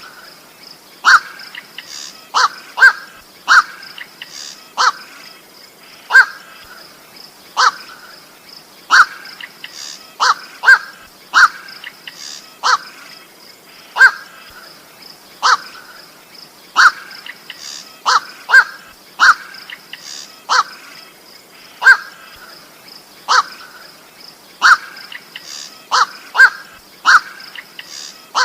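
Koak (goak) bird calling: short, sharp, harsh single calls repeated over and over at uneven spacing, about one to two a second, played as a lure recording. A steady faint high-pitched tone runs underneath.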